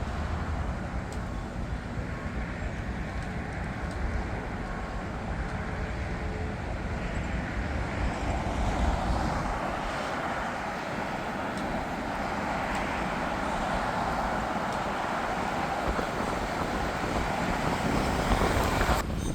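Jet airliner engines, a steady rush over a deep rumble that grows louder through the second half and cuts off suddenly near the end.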